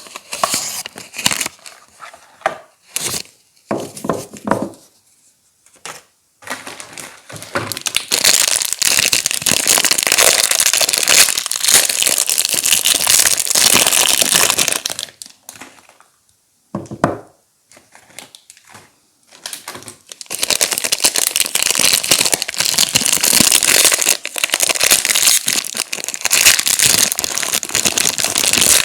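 Soap wrappers being crinkled and torn open by hand. A few scattered sharp crackles come first, then two long stretches of continuous close crinkling, the first from about a quarter of the way in to the middle and the second from about two-thirds of the way in to the end.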